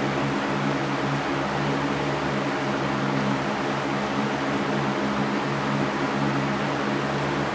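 Electric fan running steadily: an even rush of air over a low, unchanging motor hum.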